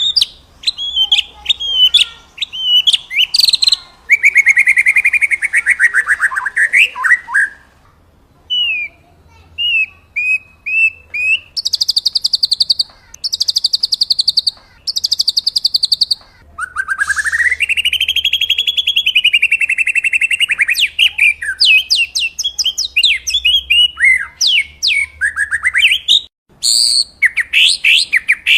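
Songbird singing a varied, fast-changing song: runs of quick whistled notes, a buzzy downward phrase, three buzzy trills in a row, and a long swooping warble, with a short pause about eight seconds in.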